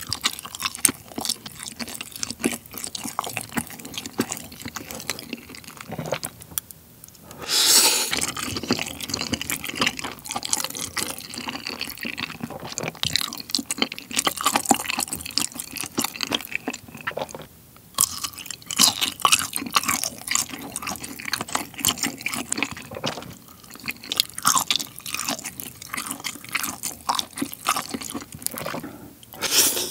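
Wet, sticky chewing of saucy rice cakes and noodles, with lip smacks and squishy mouth sounds, a louder stretch about seven and a half seconds in.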